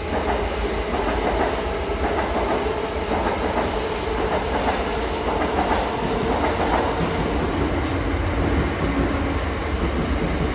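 Express passenger train running at speed: a steady rumble with the clickety-clack of the wheels over the rail joints.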